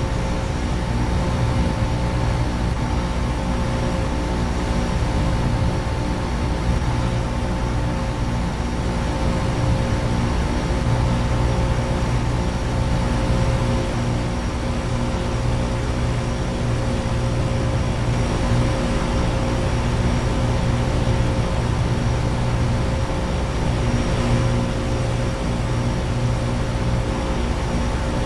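Outdoor heat pump and central air-conditioner condenser units running together. The sound is a steady hum from the compressors and fans, with a couple of steady higher tones over an even rush of air.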